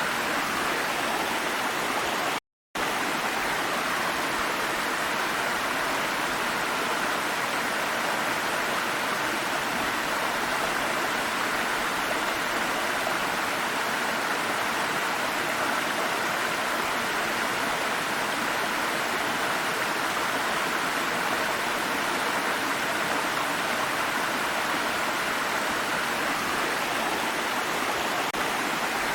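Water stream flowing over stones, a steady rushing and babbling with no pause except one brief cut-out about two and a half seconds in.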